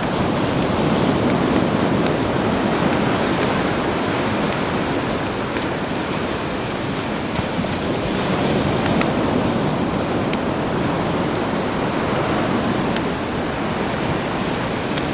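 Sea waves washing ashore, the surf swelling and easing every few seconds, with a campfire crackling in scattered sharp pops over it.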